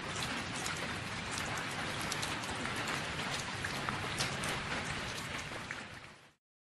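Potato wedges and meat sizzling and crackling in hot fat on a steel disc cooker, a steady dense frying sizzle with many fine pops that cuts off suddenly about six seconds in.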